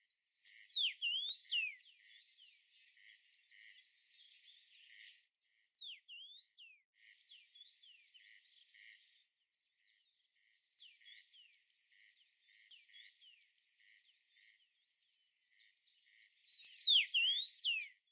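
Birds chirping: loud sweeping chirps near the start, about six seconds in and again near the end, with fainter short notes repeating about twice a second in between.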